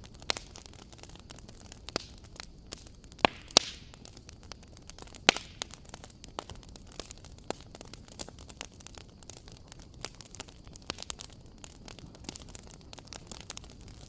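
Wood fire crackling in a fireplace: irregular sharp pops and snaps over a soft low hiss, with the loudest pops a few seconds in.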